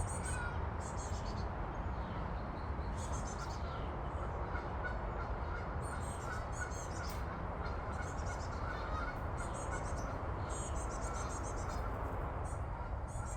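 Small songbirds chirping in short, high, rapid series every second or two over the steady rumble of highway traffic.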